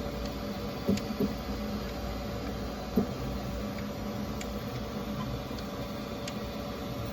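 Creality K1 3D printer running with a steady hum, broken by sharp clicks at uneven intervals roughly a second or two apart. The clicking is a new noise that the owner cannot trace; the drag chain is not hitting anything.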